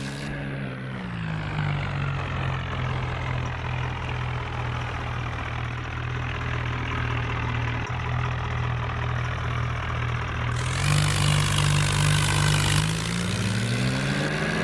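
Tractor engine running. The revs drop to a steady low speed about a second in, hold there, then climb again near the end. A hissing noise joins for about two seconds shortly before the revs rise.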